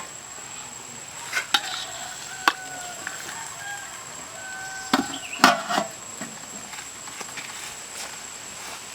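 Scattered knocks and taps of food preparation, such as chopping, about half a dozen irregular strikes with the loudest cluster around five seconds in. A steady thin high whine runs underneath.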